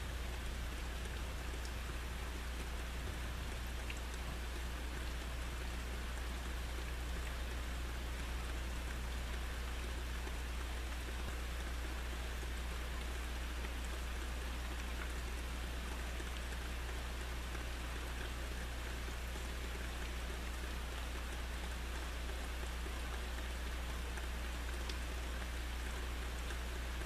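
Steady rain falling during a thunderstorm, an even hiss of raindrops with no thunder, over a constant low hum.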